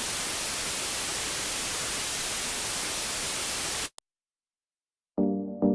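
Loud, steady white-noise hiss like TV static, starting and cutting off abruptly after about four seconds. After a second or so of dead silence, music with evenly repeated plucked notes begins near the end.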